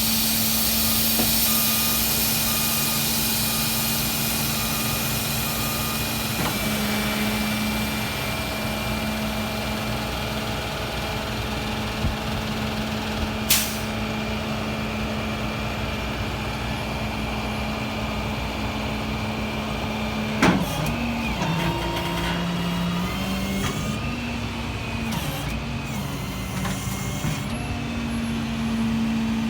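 Tow truck engine running steadily with its hydraulics in use. Its pitch steps up and down as the equipment is worked, over a steady hiss. A warning beep sounds about once a second in the first few seconds, and there are two sharp clanks, about 13 and 20 seconds in.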